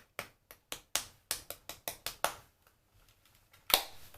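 Cushion foundation puff patting foundation onto the skin: a quick run of soft pats, about five a second, for two seconds, then a pause and one louder pat near the end.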